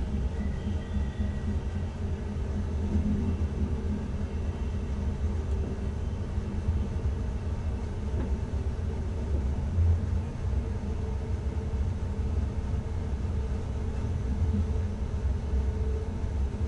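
NS ICM (Koploper) electric intercity train running along the track, heard from inside the driver's cab: a steady low rumble.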